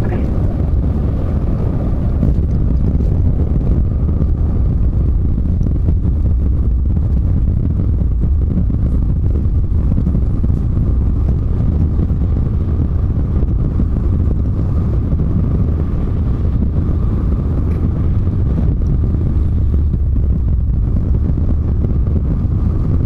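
Steady low rumble of a Volvo semi truck driving at road speed, engine and tyre noise heard from inside the cab, with a faint steady hum over it.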